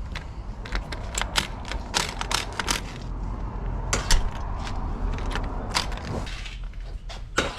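Lock installation work on a steel door and frame: a run of sharp clicks and knocks from tools and metal hardware, over a steady low hum that stops about six seconds in.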